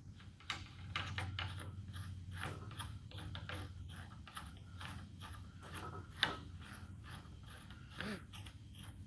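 Metal parts of a vintage Enco horizontal bandsaw being worked by hand, freshly lubricated: irregular clicking and rattling, with a sharper knock about six seconds in and a brief squeak near the end.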